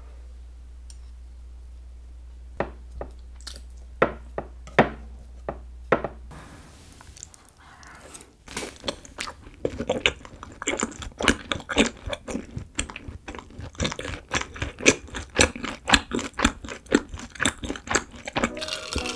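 Close-miked chewing of a mouthful of frozen honey jelly (꿀젤리). A few separate wet clicks come over the first six seconds, then, after a short pause, dense rapid chewing sounds fill the last ten seconds.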